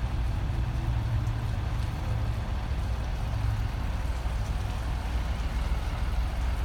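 Ram 4500's 6.7L Cummins diesel engine running steadily with a low, even rumble.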